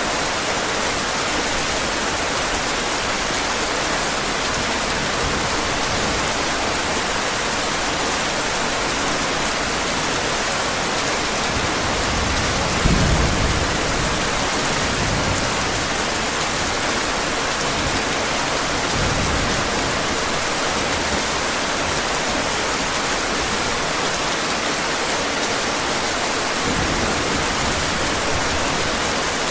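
Heavy rain falling steadily, with a low rumble of thunder near the middle.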